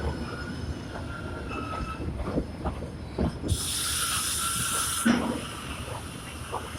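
KiHa 110 diesel railcar stopping: faint wheel and brake squeal and a few clanks, then about halfway through a loud hiss of venting compressed air lasting about a second and a half, ending in a thump.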